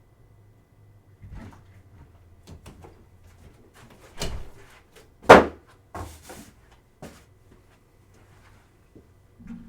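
A door and other things being handled in a small room: scattered knocks and bumps, the loudest a sharp thump a little past halfway, like a door shutting.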